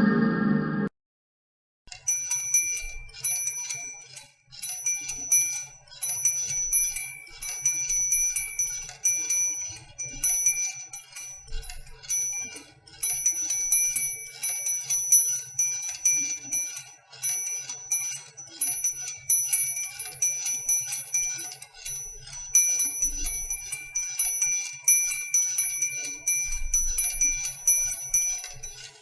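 Small, high-pitched metal chimes tinkling in rapid, irregular clusters, all ringing on the same few bright pitches. At the very start, the tail of a deeper, fuller chime cuts off abruptly.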